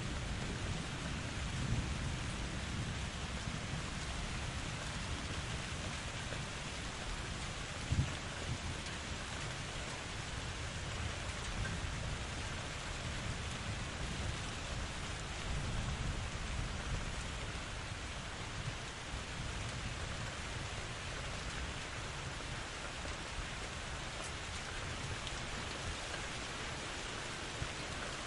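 Steady rain falling in a forest, an even hiss of many drops. A low rumble runs underneath, strongest at the start and slowly fading, with a short thump about eight seconds in.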